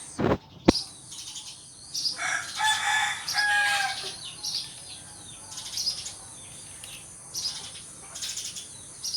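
Sparrows chirping in short repeated bursts, with a rooster crowing for about a second and a half around two to four seconds in. Two sharp knocks sound in the first second.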